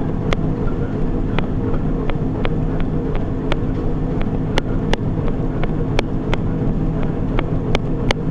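Footfalls of someone running on a treadmill: a sharp tap about every third of a second over a steady machine hum.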